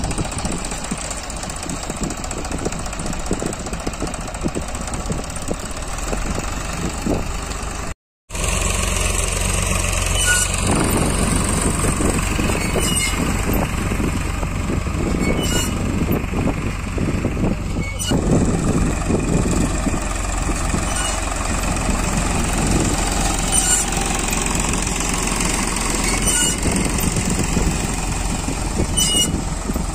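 Eicher 5660 tractor's diesel engine running steadily under load while pulling a groundnut sowing machine. The sound breaks off for a moment about eight seconds in, then picks up again.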